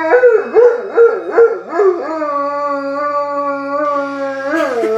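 Black Labrador howling: a few short wavering howls, then one long, steady howl that rises in pitch near the end.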